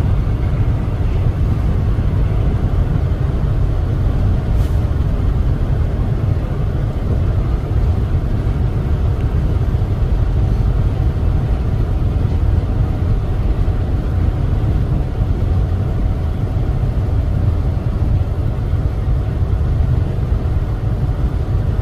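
Heavy truck driving along, a steady low rumble of engine and road noise.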